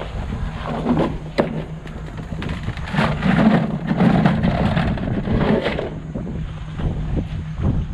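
Ram regular-cab pickup truck running on the road: a steady engine drone with road noise and scattered knocks and rattles. It gets louder for a few seconds in the middle.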